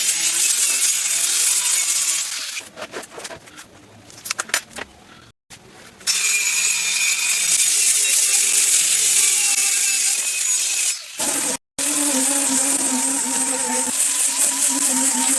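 Woodworking tool noise in short clips joined by abrupt cuts: loud rasping cutting noise, then a quieter stretch of clicks and knocks, then more cutting noise. After a cut near the end, a steady motor hum.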